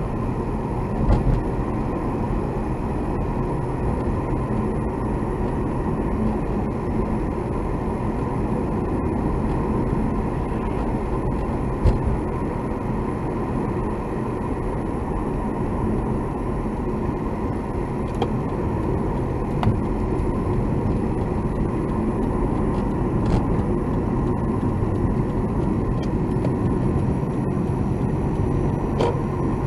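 Steady road and engine noise heard inside a moving car's cabin, with a few short knocks, the clearest about a second in and again around twelve seconds in.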